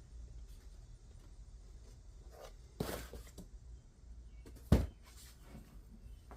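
Two sharp knocks about two seconds apart, the second the louder, with a few faint ticks over a low steady hum.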